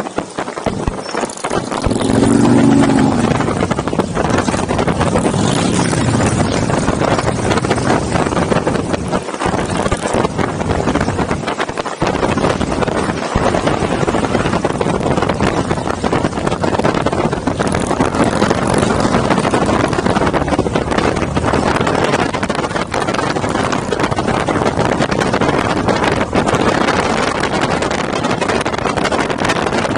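Motorcycles running during a group ride: a loud, steady din that grows louder about two seconds in.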